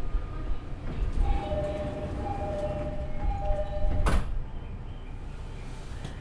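Door-closing chime on an E501 series train: two alternating tones repeat for about three seconds. The sliding doors then shut with a thump about four seconds in.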